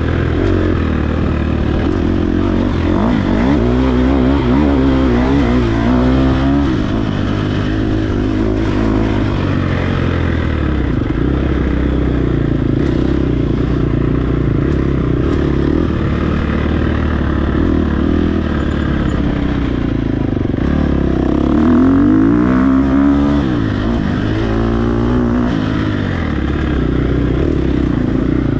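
Dirt bike engine ridden hard off-road, its pitch rising and falling over and over as the throttle opens and closes and the rider shifts gears.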